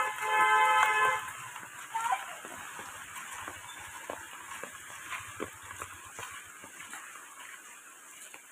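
Rain falling, a steady hiss with many scattered drips and splashes, slowly getting quieter. A short snippet of music plays for the first second or so.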